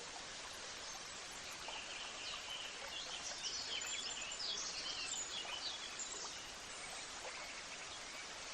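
Birds chirping in a quick run of short, high calls over a steady rushing background like a running stream; the chirping fades out a little past the middle.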